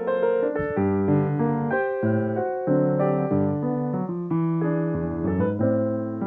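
Solo piano playing a flowing melody over chords, with notes and chords changing several times a second.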